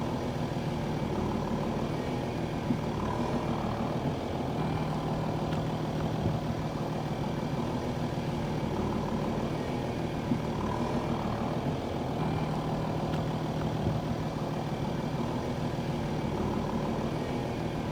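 A heavy vehicle engine running steadily at idle, its low hum fading in and out in a pattern that repeats about every seven and a half seconds.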